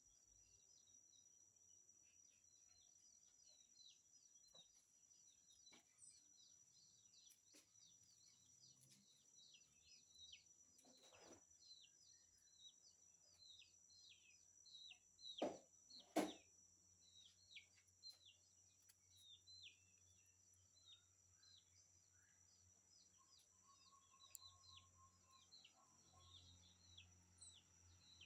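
Birds chirping: many short, high, quick-falling chirps repeated throughout, over a steady high-pitched whine. Two sharp knocks come close together about halfway through.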